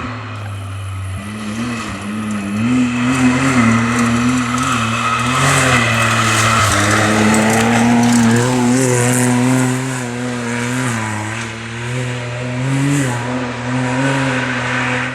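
Rally-raid car's engine running hard, its pitch rising and falling with throttle and gear changes, louder for a few seconds in the middle as it passes. The sound cuts off suddenly near the end.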